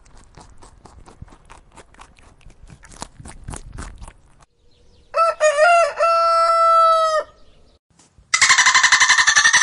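A beaver gnawing and crunching a carrot, a quick run of crisp chewing clicks for about four seconds. Then comes a loud animal call lasting about two seconds: a few short bending notes, then one long held note that drops away. Near the end a dolphin gives a loud, rapidly pulsing squealing chatter.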